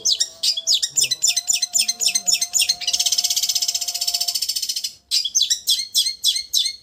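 Long-tailed shrike (cendet) singing a rapid chattering song of quick repeated high notes. A fast, buzzing trill sits in the middle. The song breaks off briefly about five seconds in, then resumes with more quick notes.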